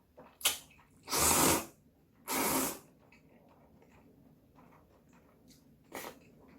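Noodles slurped twice in quick succession, two loud hissing sucks of about half a second each, after a sharp click; a shorter click-like burst near the end.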